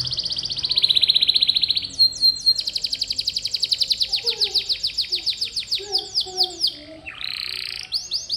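Domestic canary singing: long rolling trills of very fast repeated high notes, several runs one after another, each on a different note, with a short harsh rasping phrase about seven seconds in.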